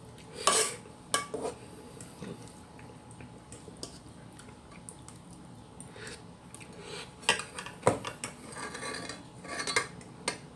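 Cutlery clinking against a plate or bowl during a meal: a few sharp, separate clinks, with a short stretch of softer scraping and handling near the end.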